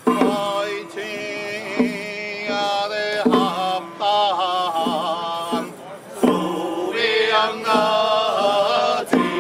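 Ritual chanting with musical accompaniment: held, wavering notes that break off and start again every second or so.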